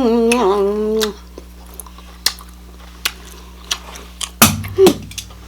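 A person eating fried chicken hums a long, steady "mmm" with a full mouth, which stops about a second in. Quiet chewing follows, with scattered mouth clicks. Near the end comes a short, louder mouth sound with a brief voiced blip.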